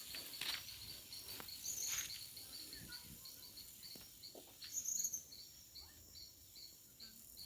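Faint countryside ambience: an insect, cricket-like, chirping in a steady high pulse about three to four times a second, with a few brief higher chirps and scattered light knocks.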